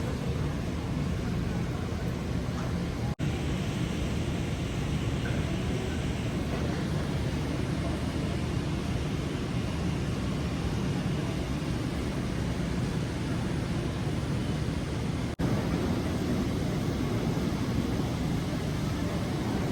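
Steady outdoor city background noise with a low rumble like distant traffic, broken by two brief gaps, about three seconds in and near the end.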